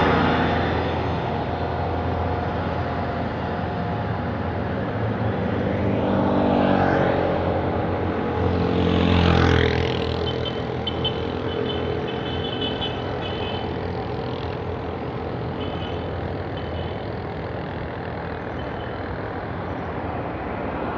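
City street traffic: a steady rumble of cars and trucks, with vehicles passing close by, loudest about six and nine seconds in.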